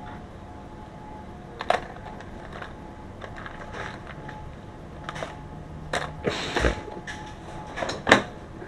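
Irregular clicks, taps and knocks of hands handling tools or parts, with a short scrape about two-thirds of the way through and the loudest knock near the end. A faint steady hum runs underneath.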